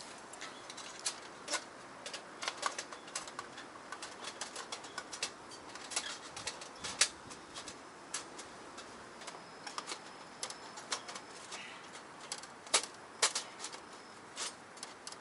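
Thin steel panels of a folding wood stove clicking and clattering lightly as they are handled and slotted together, in irregular sharp clicks with a few louder knocks.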